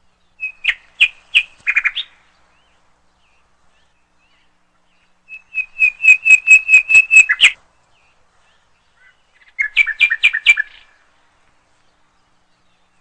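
A small bird chirping in three short bursts of quick repeated high notes, about five to six a second, with pauses of a few seconds between them.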